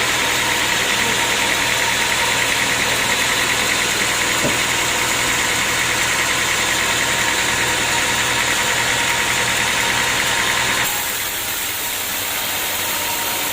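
Sawmill machinery running steadily with a fast, even pulsing through its hiss. Near the end the sound drops a little and changes abruptly.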